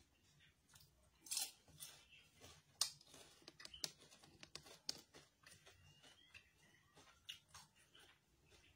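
Crispy fried chicken skin being bitten and chewed close to the mic: irregular crisp crunches, the loudest about one and a half and three seconds in, fading to softer chewing.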